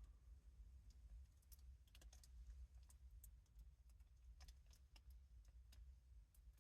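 Near silence with faint, scattered small clicks and taps of hands working with stickers, over a low steady rumble.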